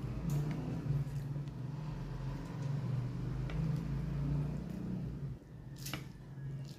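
Wet, squishy chewing of noodles and seaweed close to the microphone, easing off about five seconds in, followed by one sharp click near the end.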